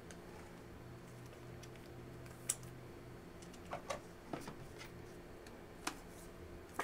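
Trading cards being handled: a few light clicks and taps of card and plastic on a table, the sharpest about two and a half seconds in and a small cluster about a second later, over a faint steady hum.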